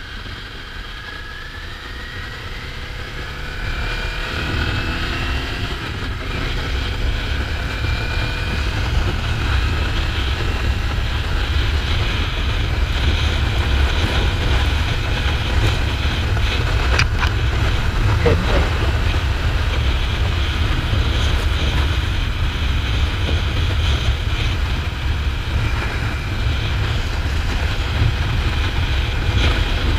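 Kawasaki Ninja 400's parallel-twin engine rising in pitch as the bike accelerates over the first few seconds. It then runs at speed under heavy wind noise on the microphone.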